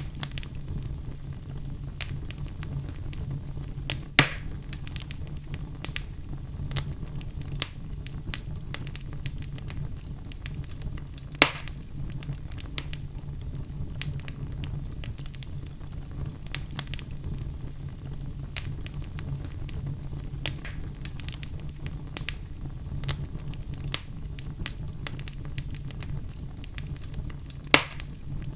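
Wood logs burning in a fireplace, crackling with frequent small pops and three louder sharp snaps, over a steady low rumble.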